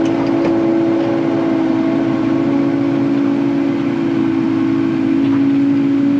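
Kubota KX080 excavator's diesel engine running steadily, heard from inside the cab while digging.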